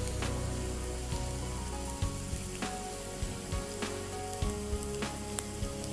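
Finely chopped onion frying in a pan: a steady sizzle with small pops and crackles at irregular intervals.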